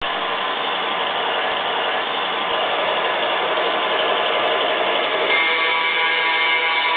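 Model train running on the track: a steady rolling and motor noise. Several steady tones join it about five seconds in.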